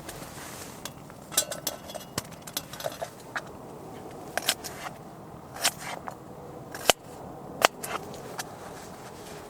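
A knife cutting vegetables: about a dozen irregular sharp knocks and clicks as the blade goes through and hits the surface beneath.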